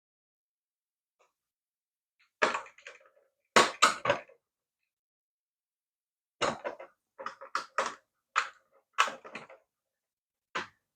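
Scattered short clicks and knocks of hard plastic parts being handled and set down, in small clusters with gaps of silence between.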